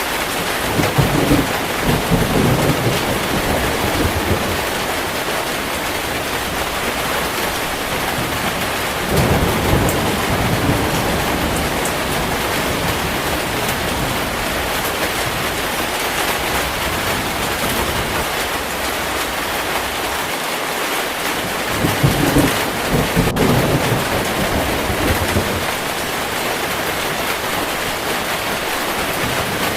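Heavy steady rain with thunder rolling three times: once near the start, once about nine seconds in and once about twenty-two seconds in.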